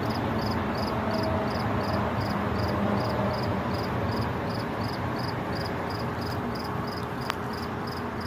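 A cricket chirping steadily, about two and a half short high chirps a second, over a steady low rumble of background noise. A single sharp click about seven seconds in.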